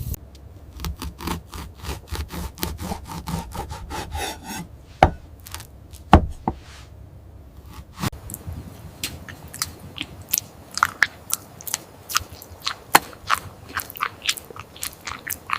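Crunching and chewing of food, a run of short crisp clicks, with two louder knocks about five and six seconds in.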